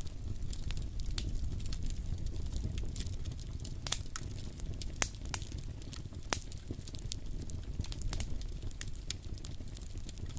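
Campfire burning, wood crackling and popping with many irregular sharp snaps, a few louder pops standing out, over a steady low rumble.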